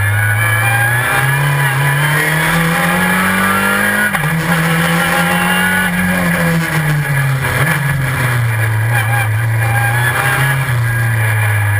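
Super FJ race car's four-cylinder engine heard onboard at full load. Its pitch climbs through the revs and jumps suddenly at quick dog-box gear changes, once about four seconds in, then falls away as the car slows before picking up again.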